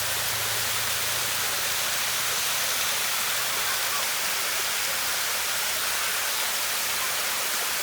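Waterfall: water falling and rushing with a steady, even hiss.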